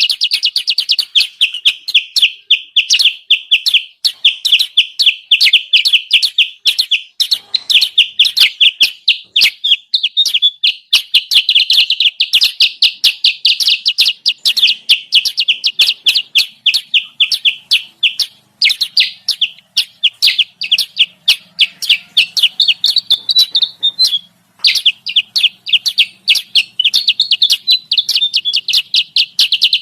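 Kutilang sutra bird-trapping lure call: a fast, unbroken run of high chirps, several a second, with two brief breaks past the halfway point.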